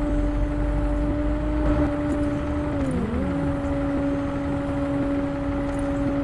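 A steady motor hum over a low rumble, its pitch briefly dipping and coming back up about three seconds in.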